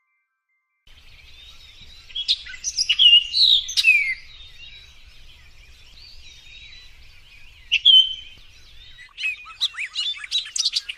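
Birds chirping and whistling, starting about a second in: a cluster of chirps a little after that, a single whistle partway through, and a quick run of chirps near the end.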